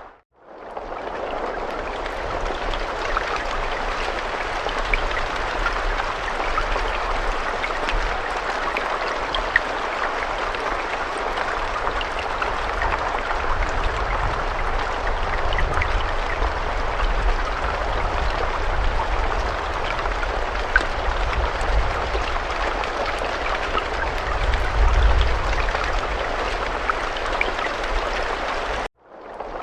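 Steady rain falling, a continuous hiss with scattered sharp drop ticks over a low rumble. The sound cuts out briefly just after the start and again about a second before the end.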